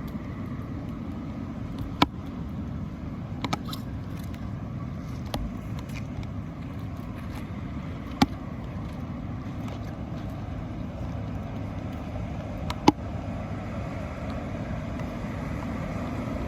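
Steady low outdoor rumble, with a handful of sharp clicks or knocks scattered through it, the loudest near the end.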